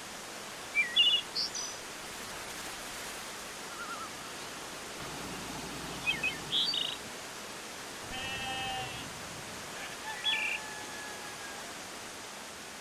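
Rural ambience: a steady hiss with scattered short bird chirps, and a drawn-out bleating animal call about eight seconds in.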